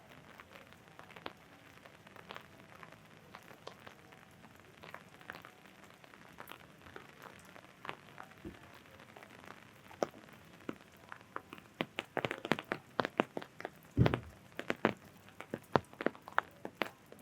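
Raindrops tapping on an umbrella over light rain: scattered taps at first, then from about twelve seconds in the drops come heavier, louder and much closer together. A single dull thump about fourteen seconds in.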